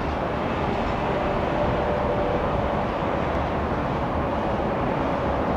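Steady rumble and roar of a Boeing 767-300ER jet airliner, with a faint steady whine riding over it.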